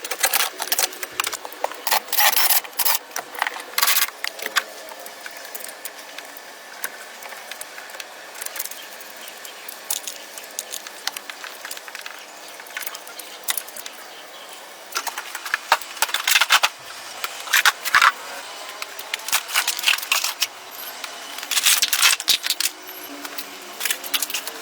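Small metal objects clinking and rattling in irregular bursts of sharp clicks, with quieter stretches between, the busiest bursts near the start and again in the second half.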